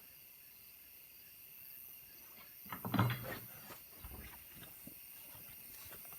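Crickets and other insects chirping steadily, with a short cluster of knocks and rustling about three seconds in.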